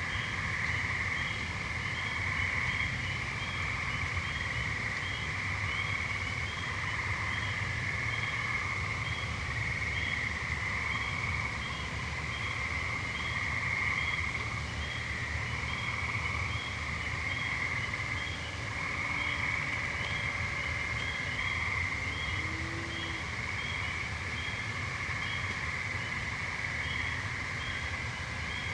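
Chorus of gray treefrogs, overlapping trills a few seconds long that keep up without a break. A fainter high chirp repeats evenly about once every two-thirds of a second.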